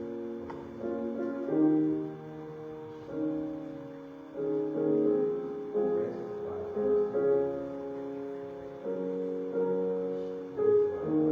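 Slow, quiet keyboard music: held chords that change every second or two.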